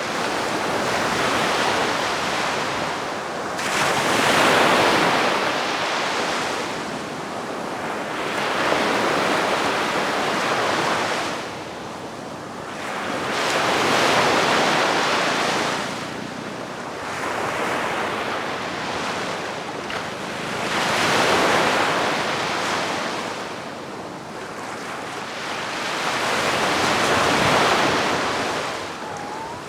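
Calm sea waves washing onto the shore, each gentle surge of surf swelling and fading every few seconds.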